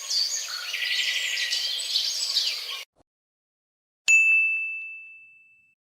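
A single bright ding, like a small bell struck once, rings out about four seconds in and fades away over nearly two seconds. Before it comes a busy texture of high chirps and whistles that cuts off abruptly.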